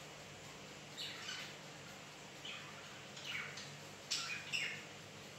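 A pet bird chirping: a handful of short, high chirps that sweep downward in pitch, spaced about a second apart, the loudest near the end.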